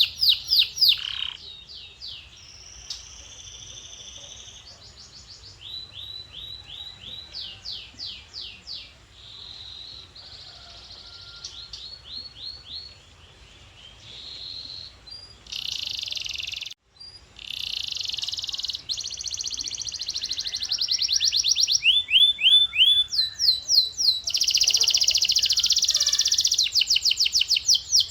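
Male canary singing: a chain of fast trilled rolls of repeated notes, each roll at a different pitch, broken by a brief gap about two-thirds of the way through and louder in the last few seconds.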